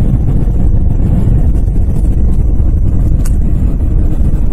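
Steady low rumble of a car driving slowly on a snowy interstate, heard inside the cabin: tyre and road noise with the engine underneath. A single short click about three seconds in.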